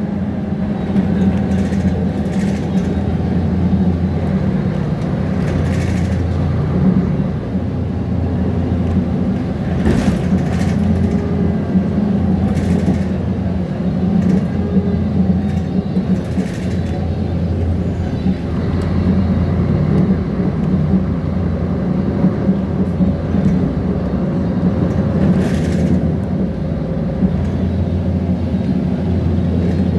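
Mercedes-Benz Conecto G articulated bus with its OM457 inline-six diesel engine running in a steady drone, with body parts rattling and knocking now and then.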